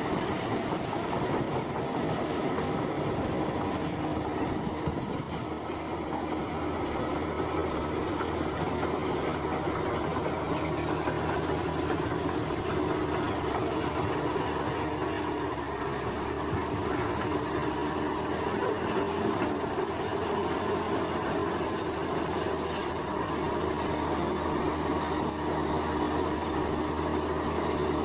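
Heavy diesel earthmoving machinery running steadily, with a high, pulsing insect-like chirp over it.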